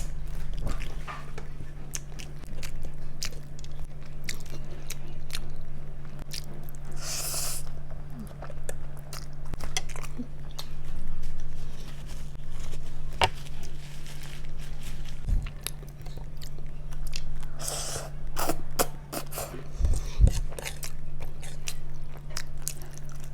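Close-up chewing of spaghetti, with wet mouth clicks and smacks and two short noisy bursts, about 7 and 18 seconds in. A steady low hum runs underneath.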